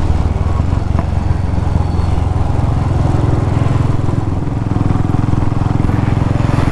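Motorcycle engine running steadily while riding along the road: a continuous low rumble.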